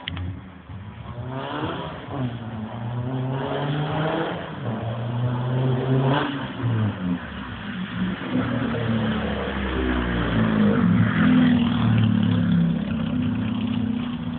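A home-built dragster's engine revving up in several rising sweeps, then running louder and steadier as the car comes up close.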